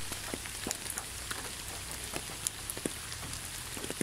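Steady rain with many individual drops ticking irregularly close by.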